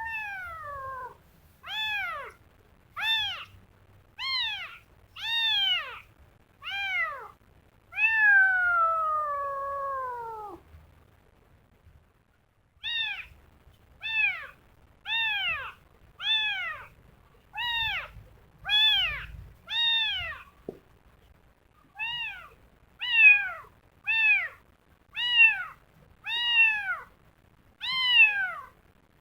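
Kitten meowing over and over, about one call a second, each meow falling in pitch. One longer, drawn-out meow comes about eight seconds in, followed by a short pause before the calls resume.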